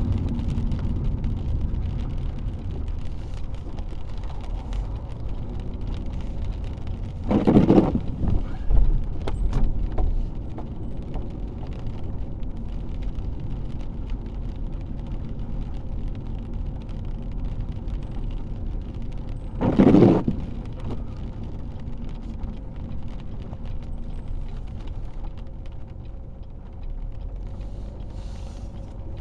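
Steady road and engine noise inside a car driving through light rain. Two brief louder swishes come about twelve seconds apart, and a short knock is heard in between.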